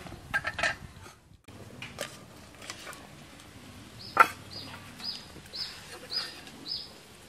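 A bird calling with short, high, falling chirps, about two a second, from about four seconds in. Scattered sharp clicks and knocks, the loudest just after the chirps begin.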